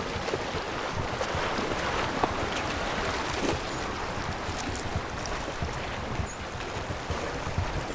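Steady wind buffeting the microphone, with the sea washing in the background.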